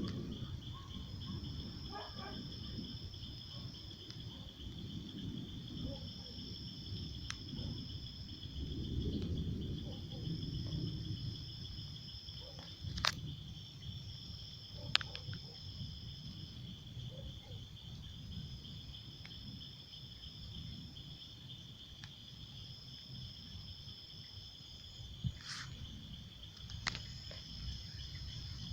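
Crickets or similar insects calling: one steady, unbroken high trill, and a second, higher trill in phrases of about a second and a half separated by short gaps. A low rumble runs underneath, with a few sharp clicks about halfway through and near the end.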